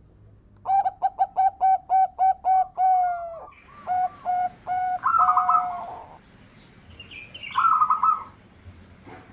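Zebra dove (perkutut) singing: a fast run of about a dozen short cooing notes, roughly four a second, then a slower stretch of notes and, near the end, a shorter burst of higher notes.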